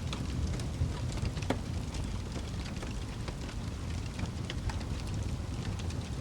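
Wood fire burning in a fireplace: a steady low roar of the flames with frequent small crackles and pops, one sharper pop about one and a half seconds in.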